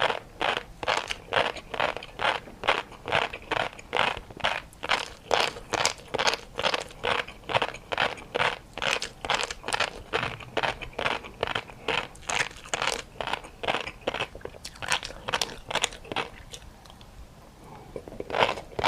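Close-up chewing and biting with crunchy mouth sounds, a steady rhythm of about three chews a second, pausing briefly near the end.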